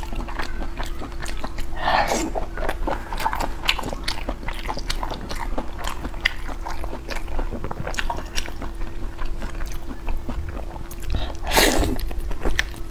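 Close-miked chewing and wet mouth clicks from eating braised meat, with louder bites about two seconds in and again near the end.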